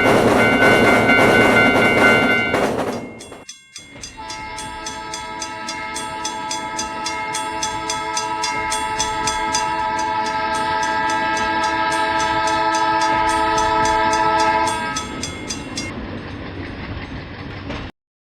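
A train passing with loud rail noise for a few seconds. Then a long multi-tone train horn sounds for about eleven seconds, slowly growing louder before it fades, and the audio cuts off near the end.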